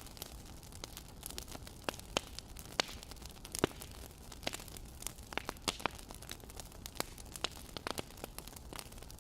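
Wood fire crackling: irregular sharp pops and snaps, several a second, over a steady low hiss.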